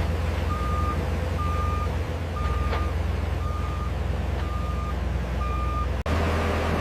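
A heavy construction vehicle's reversing alarm beeping steadily about once a second over its diesel engine's low running rumble. The beeping stops and the sound changes abruptly near the end.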